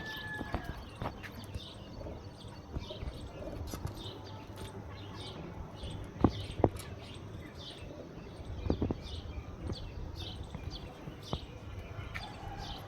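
Short high bird chirps repeating about twice a second, with a few sharp knocks in the middle, two of them loudest and close together.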